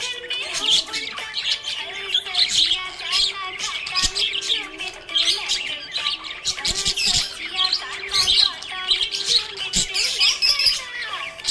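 Budgerigar chattering: a fast, continuous run of chirps, warbles and short squawks.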